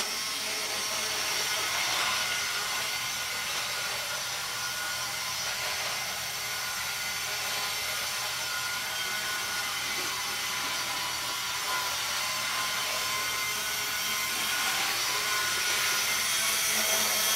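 HO scale US Army 4825 model locomotive running a lap of the track: a steady electric-motor whir with faint steady tones, a little louder near the end.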